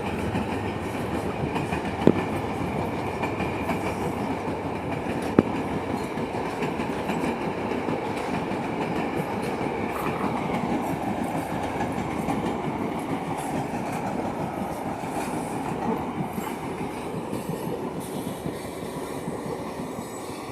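Passenger train rolling past, its wheels clattering steadily over the rails, with two sharp clanks about two and five seconds in; the rumble eases off near the end.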